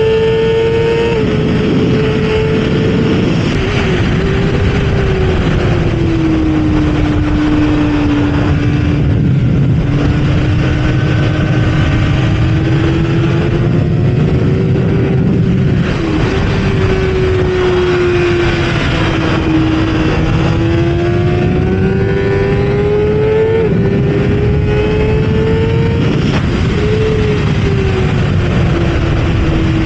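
Kawasaki ZX-6R inline-four engine at racing speed, its pitch climbing under throttle and dropping abruptly several times as it shifts up, then falling away more slowly as it slows for corners. A constant rushing noise runs beneath it.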